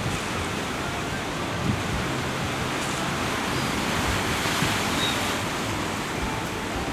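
Steady, dense wash of wind and surf, with the massed calling of a Cape gannet breeding colony blended into it.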